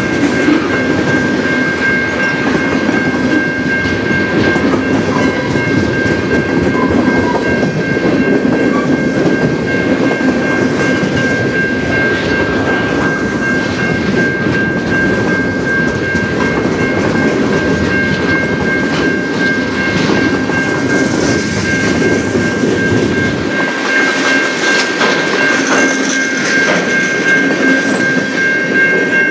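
Freight train's tank cars and flatcars rolling past, wheels clacking over the rail joints, with the crossing's warning bell giving a steady high ringing throughout. About 23 s in the low rumble drops away as the end of the train passes, leaving the bell and the fading wheel noise.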